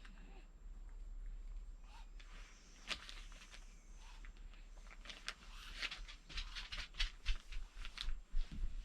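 Scattered small clicks and taps, sparse at first and thicker in the second half, over a low steady hum.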